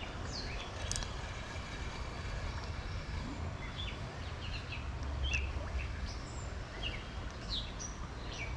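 Scattered short bird chirps over a steady low background noise.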